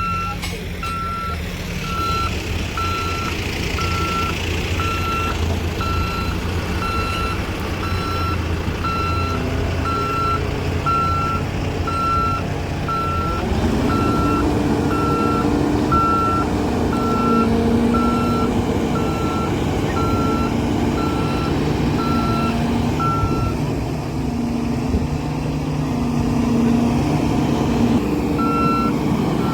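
Heavy diesel machinery running with a reversing alarm beeping steadily, about one beep every three-quarters of a second; the beeping stops about 23 seconds in and starts again near the end. About halfway through, the engine note rises and holds higher, as if the machine is working under load.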